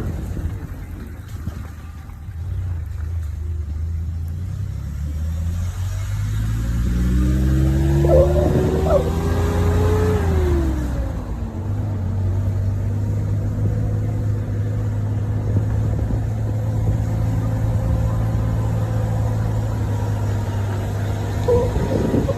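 A car engine under way: it revs up steadily for a few seconds, drops in pitch about eleven seconds in as if changing gear, then runs at a steady pitch.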